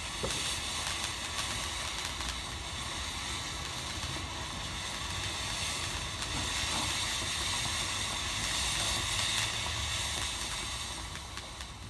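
A fountain-type firework hissing steadily as it sprays sparks, over a low rumble.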